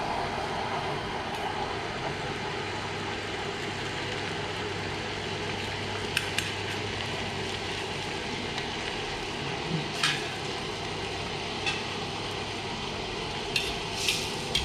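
Food sizzling steadily as it fries in a pan, with a few sharp clinks of a utensil against the pan.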